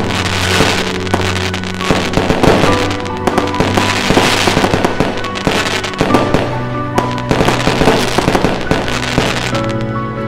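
Fireworks bursting and crackling in quick, irregular bangs, over music with long held notes.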